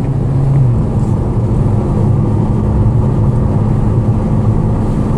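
Interior drone of a Volkswagen GTI MkV's turbocharged 2.0-litre four-cylinder, tuned to stage 2+ with a cold air intake, cruising on the road with tyre and road noise under it. The engine tone shifts up slightly about a second in.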